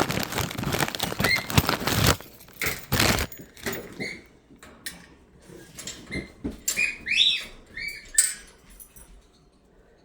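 Packaging rustling and crinkling as a parrot foraging toy is taken out, then scattered taps and clicks and a few short, high squeaks near the end.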